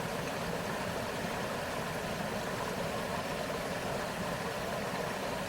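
Steady rushing of a shallow river flowing over stones, an unbroken even wash of water noise.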